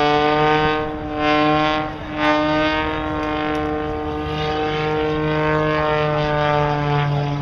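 Propeller airplane engine droning as it flies past, its pitch sinking slowly.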